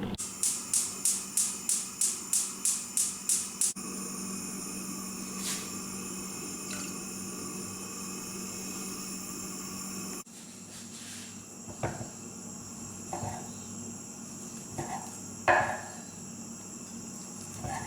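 Kitchen prep sounds: a run of about a dozen even scraping strokes, roughly three or four a second, then a steady hum with a few light ticks, and later several separate knocks of utensils on a work surface.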